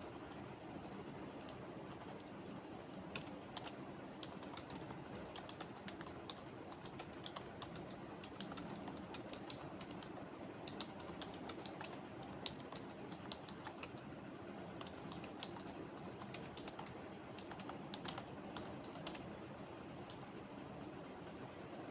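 Computer keyboard typing: irregular runs of key clicks, denser through the middle and sparser near the start and end, over a steady background noise.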